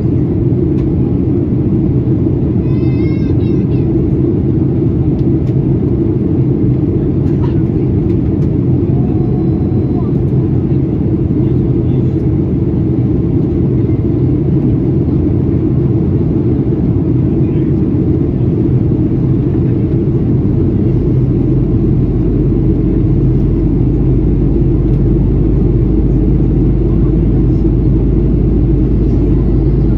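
Steady low rumble of engine and airflow noise heard inside the cabin of a Boeing 737-800 in flight, from its CFM56 turbofans and the air rushing past the fuselage.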